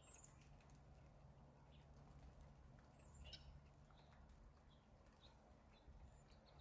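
Near silence: the faint steady rush of a distant flooded creek, with a few faint, short bird chirps scattered through it.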